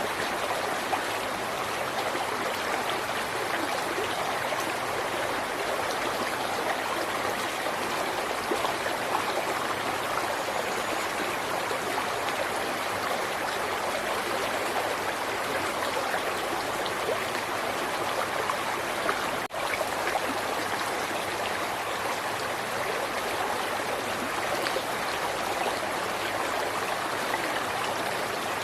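River water flowing steadily, with a momentary dip in the sound about two-thirds of the way through.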